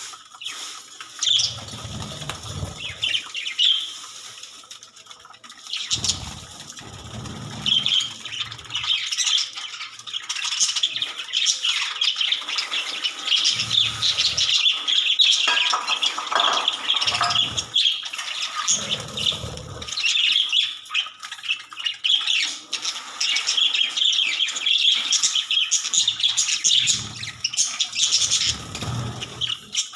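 A flock of budgerigars (Australian parrots) chirping and chattering continuously, with short low thuds or rumbles now and then.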